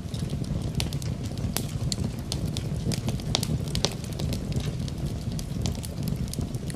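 Wood fire in a fireplace crackling, with frequent irregular sharp pops and snaps over a steady low rumble, mixed with rain.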